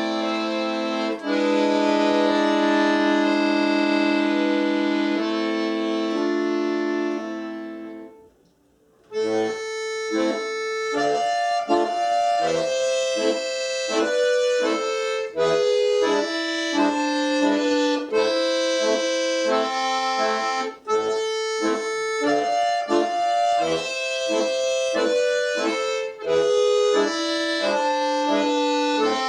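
Solo accordion playing Russian folk music: long held chords die away about eight seconds in, and after a brief pause a lively, quick tune of short detached notes and chords begins.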